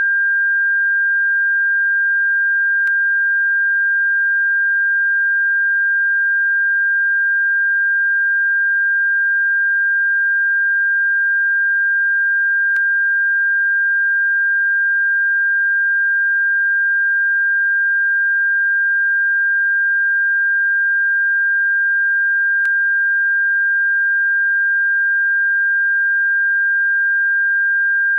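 A single steady, high-pitched pure tone played as a bird-repellent frequency, holding one pitch without change, with faint clicks about every ten seconds.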